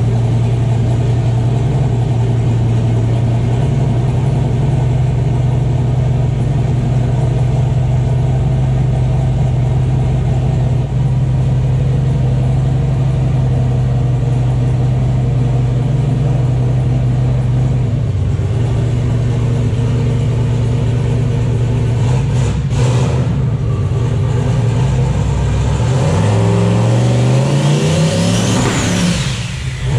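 Turbocharged V8 of a C6 Corvette idling steadily, then revved up on the two-step in the last part. A high turbo whine climbs and falls near the end as it builds boost.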